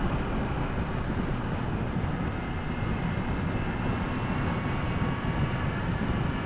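Riding noise aboard a BMW S1000R at a steady speed: rushing wind and the inline-four engine running evenly, without revving, its stock exhaust muted.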